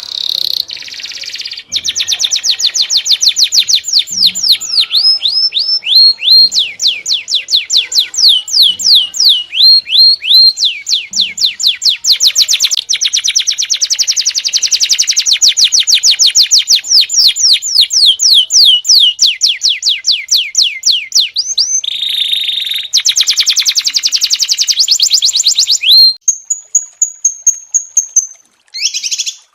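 Small songbirds singing fast trills of high, down-slurred notes, many to the second, in spliced recordings that change abruptly a few times. Near the end comes a steady high whistle, then a short break and clipped bursts of song.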